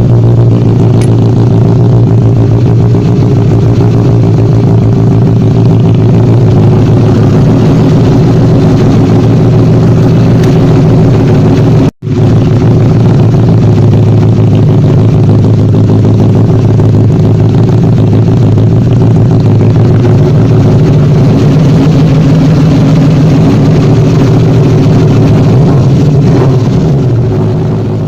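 Benelli TNT 600i's inline four-cylinder engine running at a steady speed, its exhaust note loud and even. The sound cuts out for an instant about twelve seconds in and starts fading away near the end.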